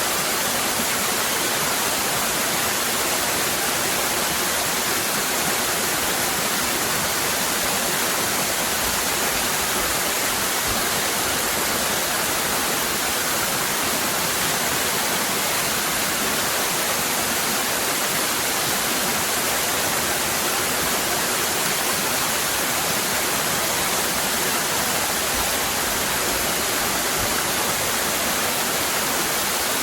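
Waterfall cascading: a steady, unbroken rush of falling water, strongest in the high hiss.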